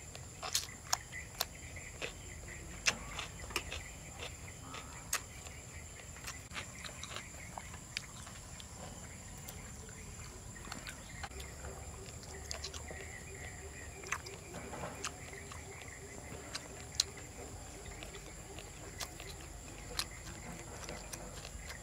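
Eating sounds: chewing, lip smacks and small clicks as grilled beef and okra are bitten and eaten, over a steady high chirring of night insects.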